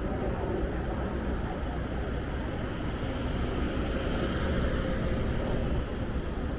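City street noise: steady traffic, with wind rumbling on the microphone. A vehicle swells past about two-thirds of the way through.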